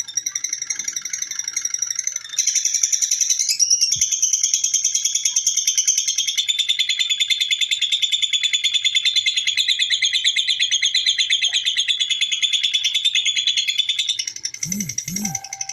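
Lovebird 'ngekek': a long, unbroken run of rapid high chattering notes. It grows louder about two seconds in and eases off near the end.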